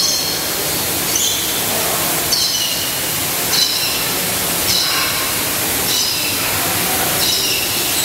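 A bird repeating a short high call about once a second, over a steady rushing hiss.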